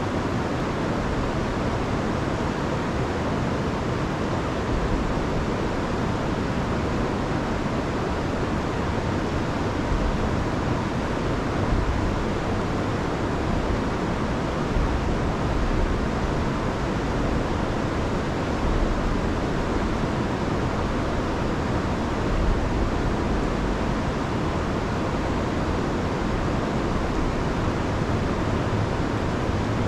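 A rain-swollen river rushing over a waterfall, a steady full roar of water with no let-up.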